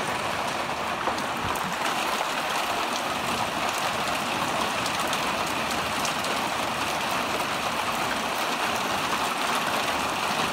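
Heavy rain pouring down steadily, an even hiss of drops with fine scattered patters on surfaces.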